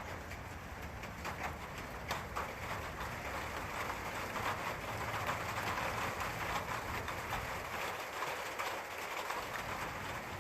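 Steady rain falling, with individual drops tapping close by; it grows a little heavier in the middle.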